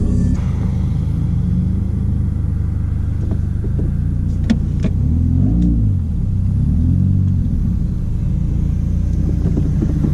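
Car engine running with a low rumble, its revs rising and falling a few times. There is a single sharp click about halfway through.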